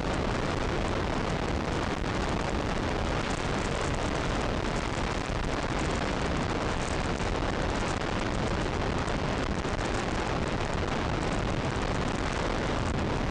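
Steady rush of wind over the microphone on a moving motorcycle, with engine and road noise mixed in at riding speed.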